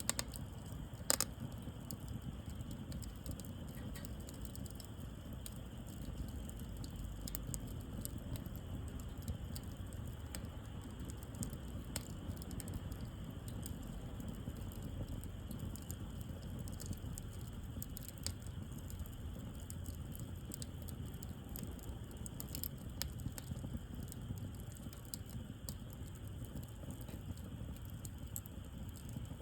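Wood bonfire crackling, with scattered sharp pops over a steady low rumble; one louder pop about a second in.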